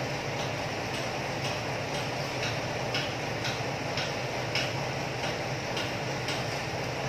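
A steady mechanical hum with a light, regular ticking about twice a second over it.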